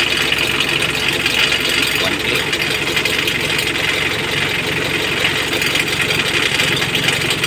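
Mitsubishi L300's diesel engine idling steadily just after starting.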